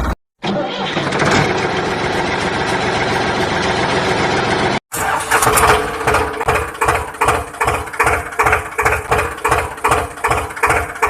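Engine running, in two spliced takes: first a steady rough running sound, then, after an abrupt cut about five seconds in, an even chugging of about two to three beats a second over a steady hum.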